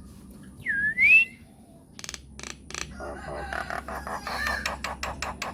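Myna calling: one loud whistle that dips and then rises about a second in, followed by sharp clicks and a fast, rattling chatter.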